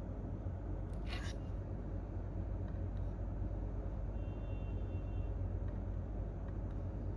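Steady low hum of office room tone between bursts of typing, with one short rub about a second in and a faint high tone near the middle.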